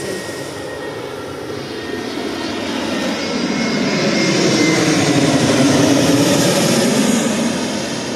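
Airplane passing low overhead: its engine noise grows louder to a peak about six seconds in, the pitch sliding down as it goes by, then starts to fade.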